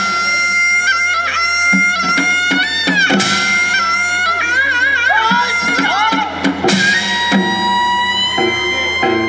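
Korean traditional instrumental music: a melody instrument holds long notes with a wide, wavering vibrato over repeated drum strokes.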